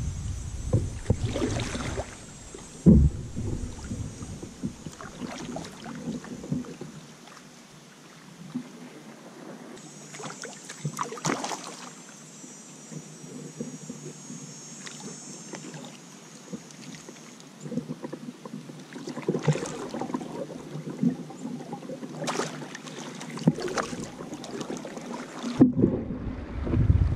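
Kayak paddles dipping and splashing in river water in irregular strokes. There is a sharp knock about three seconds in.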